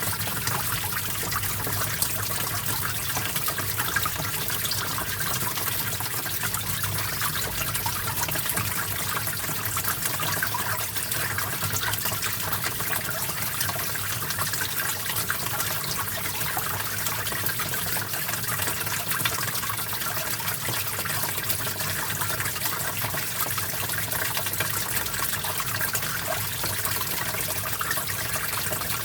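A small stream running steadily, water trickling and splashing over rocks.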